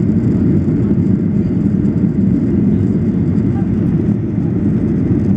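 Steady low rumble inside the cabin of a Boeing 737-800 on final approach: its CFM56 jet engines and the rushing airflow, heard from a rear window seat.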